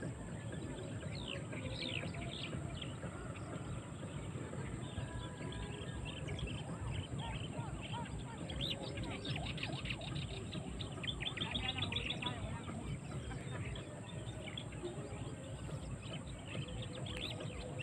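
Birds chirping and calling, many short chirps with a quick run of them about eleven seconds in, over a low rumble.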